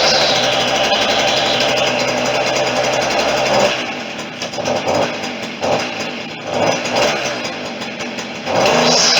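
Stihl FS40C string trimmer's small two-stroke engine, freshly started, running at high speed. About four seconds in it drops to an uneven, surging idle, then revs back up near the end.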